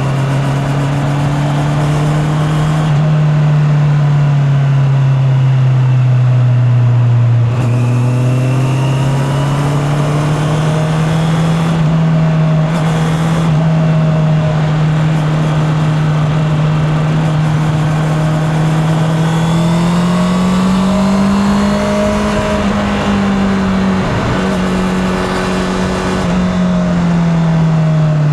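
Honda CB650R's inline-four engine running under way, heard from the rider's back pocket. Its pitch sinks a little, picks up again about a quarter of the way in, holds steady, climbs about two-thirds through, then drops as the throttle eases off near the end.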